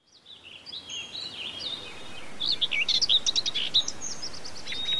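Several small birds chirping and whistling, fading in at the start, with a burst of quick, rapid trills about halfway through, over a faint steady hiss.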